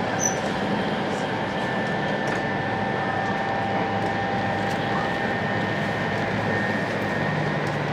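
Steady running noise heard inside a 500 series Shinkansen car travelling at speed: an even rush with a faint, constant high whine over it.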